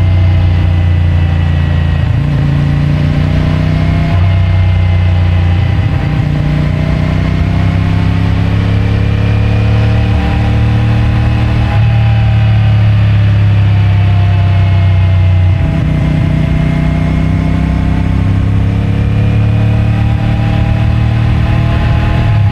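CFMOTO 450MT's parallel-twin engine on its stock exhaust under way, revs rising and falling with several abrupt steps as it changes gear. Heard from a microphone in the rider's rear pocket.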